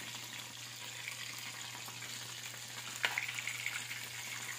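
Chicken necks deep-frying in hot oil in an aluminium wok, a steady crackling sizzle. A metal spatula turns the pieces, and a sharp knock against the pan about three seconds in is followed by a brief louder spell of sputtering.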